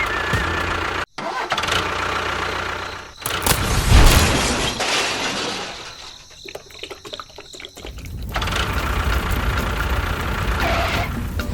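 Engine sound, steady, breaking off suddenly about a second in. It swells loudest around four seconds, fades to a few scattered clicks, then runs steadily again from about eight seconds.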